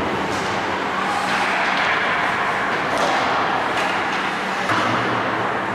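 Ice hockey game sounds on the rink: a steady scraping hiss with several sharp clacks scattered through it, over a steady low hum.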